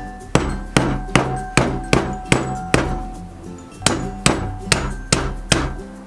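Flat of a kitchen knife blade smashing a cucumber against a wooden cutting board: about a dozen sharp whacks, roughly two and a half a second, with a short pause near the middle. Background music plays underneath.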